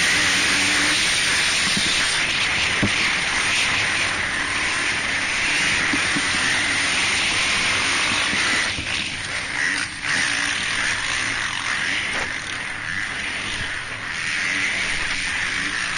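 Motocross motorcycle engines running on a race track, a loud, noisy, continuous din that dips briefly about nine seconds in and again near the end.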